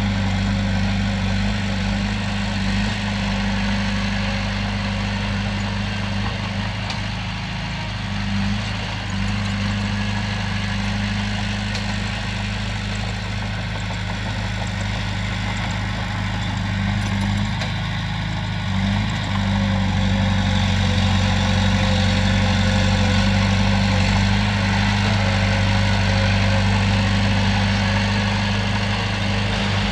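Heavy diesel engine running steadily at an even low pitch, growing a little louder about two-thirds of the way through.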